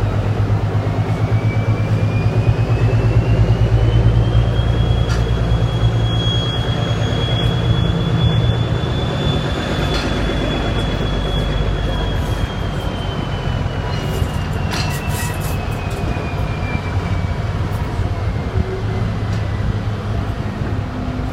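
Class 17 diesel locomotive D8568 under way, its engine drone strong and then easing off about halfway through. A high whine rises over the first few seconds, holds, then falls slowly. There are a few sharp clanks about two thirds of the way in.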